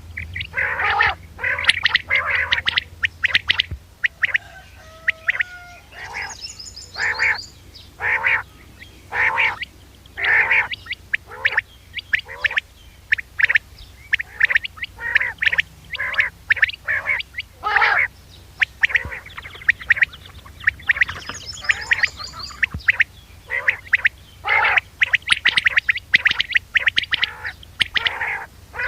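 Quail (bater) calling over and over: short calls about one a second, often in quick clusters, a recording played as a hunting lure. A faint high twitter sounds twice, and a low hum runs underneath.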